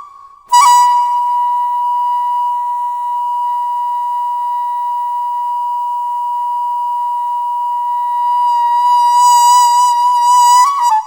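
Daegeum (Korean large bamboo transverse flute) playing one long held note after a short breath at the start. The note swells louder and brighter near the end, then a quick ornament leads into a break.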